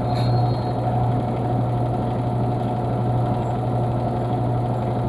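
A steady low mechanical hum with a constant whirring noise, unchanging throughout.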